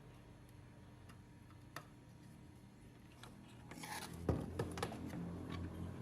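A few faint clicks, then from about the middle a couple of seconds of rubbing and scraping with several sharp knocks, which stops suddenly at the end.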